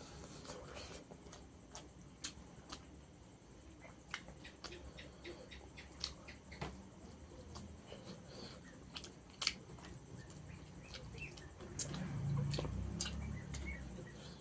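Eating rice and fish curry: scattered wet clicks and smacks of chewing and mouth sounds, the loudest sharp click about twelve seconds in, followed by a low rumble for a second or so.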